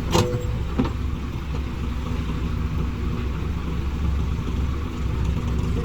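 Heavy diesel engine running steadily, with two sharp knocks within the first second.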